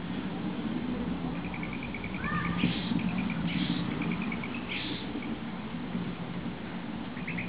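Small birds chirping in short rapid trills, with a few sharper higher calls, over a steady low hum.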